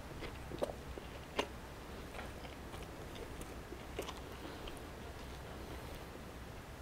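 A person chewing a mouthful of Burger King Whopper, with scattered clicks of the mouth and food; the sharpest is about a second and a half in.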